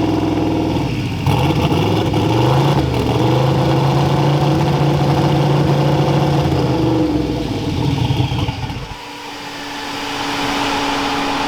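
Car engine running while driving, its note shifting a few times and then holding steady. About eight seconds in the engine note drops away, leaving a quieter steady hum.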